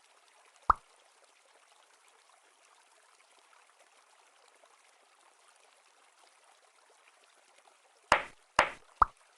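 Sharp short plops, as of something dropping into water: one under a second in and three close together near the end, over a faint steady hiss.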